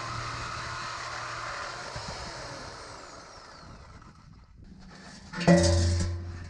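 A steady whirring fades with a whine that falls in pitch over the first few seconds. About five and a half seconds in, the 6.6-litre Duramax turbo-diesel V8 starts up loudly, then settles to a low, steady idle.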